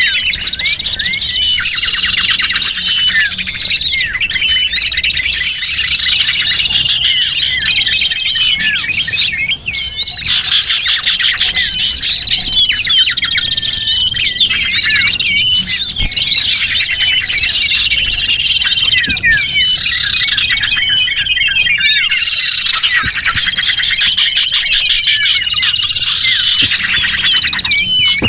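Dense, continuous chattering of many small birds: quick high chirps and squeaky twitters, with thin whistled notes held for a second or two several times. This is a bird-lure recording meant to draw small birds in.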